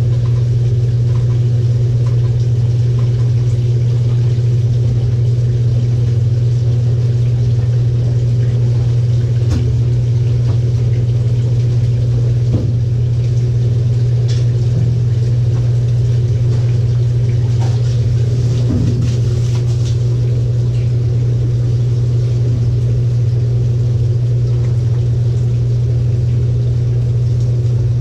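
LG 18 kg top-load washing machine running on its delicate cycle with a loud, steady low hum, and a few faint clicks and knocks about halfway through.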